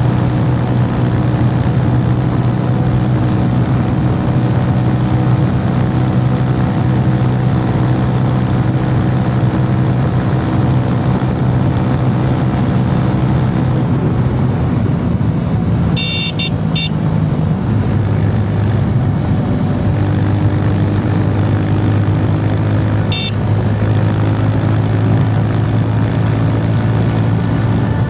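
Roadmaster Rapido 150cc motorcycle engine running at a steady note under way. Its pitch steps down a little about two-thirds of the way through, and two brief high-pitched chirps sound near that point and again a few seconds later.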